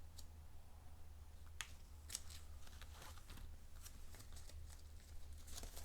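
Faint scattered clicks and short rustles of paper embellishments being handled on a crafting table, over a steady low hum.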